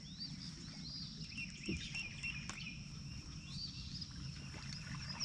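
Outdoor ambience of birds singing in repeated short rising-and-falling chirps over a steady high-pitched insect drone.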